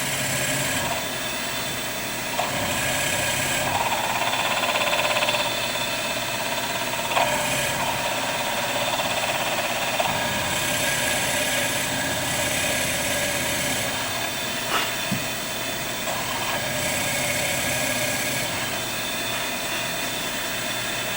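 Benchtop milling machine spindle running while a drill bit is fed down into a knife handle, cutting a pocket for the pivot bushing. The higher-pitched cutting noise comes and goes in patches of a second or two, with a few sharp clicks.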